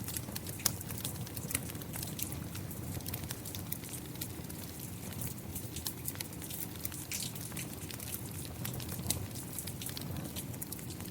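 Fireplace fire crackling, with irregular sharp pops, over a steady low rush of rain.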